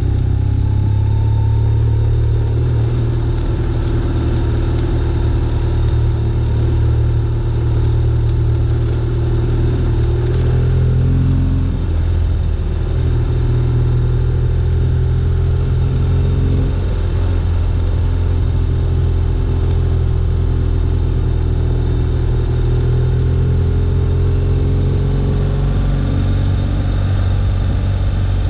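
2011 BMW R1200GS's boxer twin engine running steadily as the motorcycle rides at low speed, its engine note shifting about ten to twelve seconds in and again a few seconds later as the revs change.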